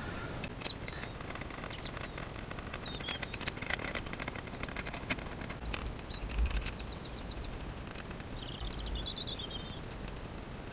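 Small songbirds chirping, with short high calls, a quick trill about six seconds in and a warbling phrase near nine seconds, over faint clicks and taps of small parts being handled.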